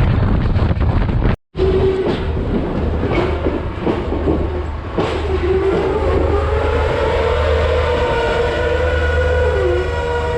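Class S13 diesel multiple unit running on the rails with a steady low drone, a few wheel clicks and a wavering mid-pitched whine. Before that, wind rushes on the microphone and cuts off abruptly about a second and a half in.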